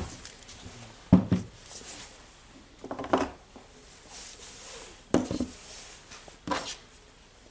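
Knocks and clatter of hard tool parts being handled and set down on a workbench: about five separate sharp knocks spread over several seconds.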